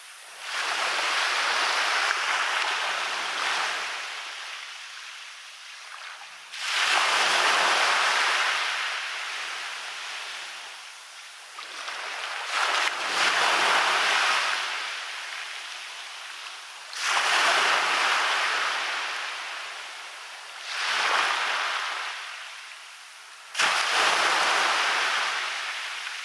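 Waves breaking on a beach about every four to six seconds. Each one comes in with a sudden rush of hiss and then fades away over a few seconds as it washes back.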